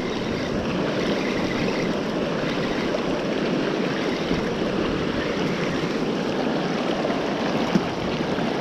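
River water rushing steadily in a continuous, even flow, the river running high and flowing well. A single short click near the end.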